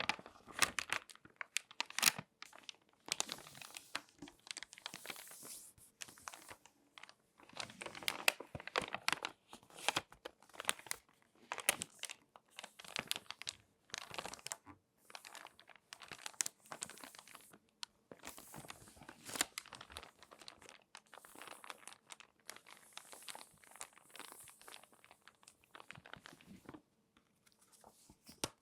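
Glossy magazine pages being folded and handled, with irregular crinkles, crackles and swishes of the paper.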